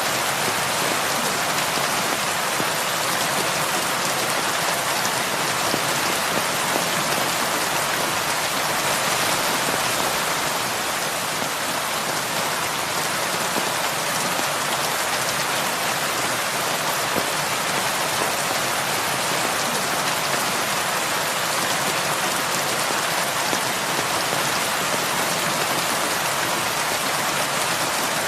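Heavy rain falling steadily on a roof, an even, continuous hiss of drops.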